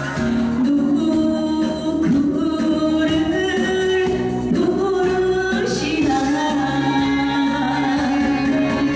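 A woman singing a Korean trot song over a backing track.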